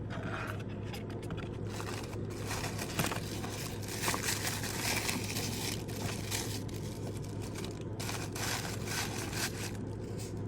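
Packaging being unwrapped and handled, crinkling and rustling in irregular bursts, over a steady low hum.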